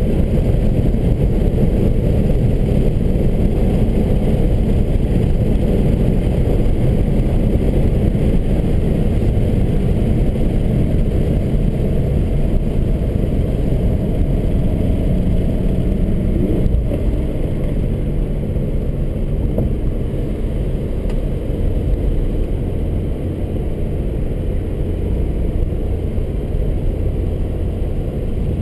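Inside the cabin of a Subaru BRZ driven hard on a track: its flat-four engine runs under load with steady road and tyre noise. A short rising note comes about halfway through, and the sound is a little quieter after it.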